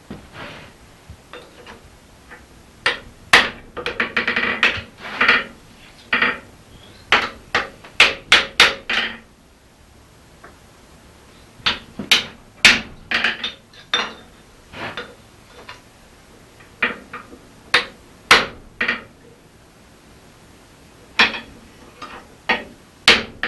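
Blacksmith's hand hammer striking a hot felling-axe head on an anvil: runs of several sharp blows separated by pauses of a second or two.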